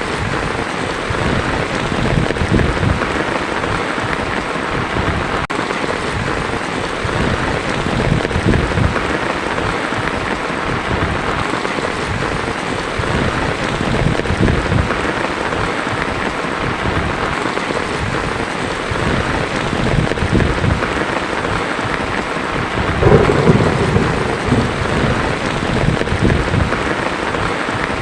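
Heavy rain drumming steadily on a tin roof, with low rolls of thunder rumbling through it and a stronger thunder rumble near the end.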